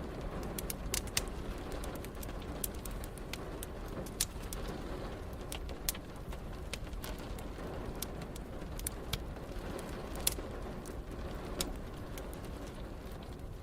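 Wood fire crackling, with sharp pops at irregular intervals over a steady wash of rain.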